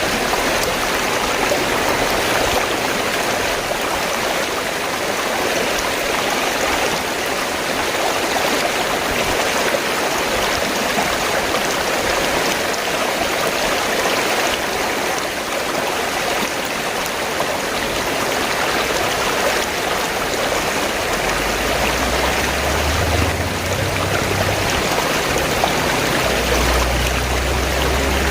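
River water flowing in a steady rush. A low rumble joins it about three quarters of the way through and again near the end.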